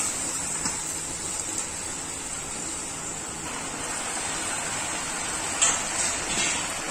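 Wet, freshly washed leafy greens (karmata bhaji) sizzling steadily as they land on hot mustard oil, chana and tomato in a steel kadhai. A few light metal clinks come near the end, the sharpest about five and a half seconds in, as a steel colander is handled on the pan.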